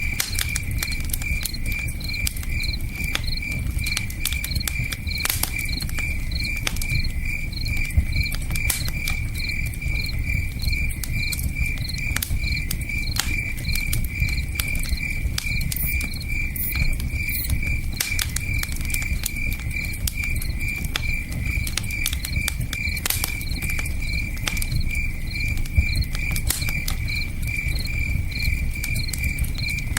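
Cricket chirping steadily in an even rhythm over a low rush of river water, with campfire crackles and pops scattered throughout, one sharper pop about eight seconds in.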